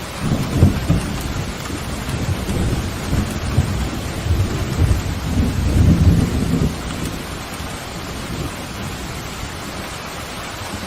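Steady heavy rain with a roll of thunder that rumbles in just after the start, swells again a few seconds later and dies away about two-thirds of the way through, leaving the rain.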